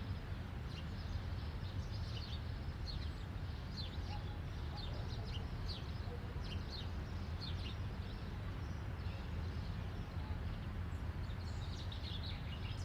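Faint small birds chirping in short, scattered calls over a steady low background rumble.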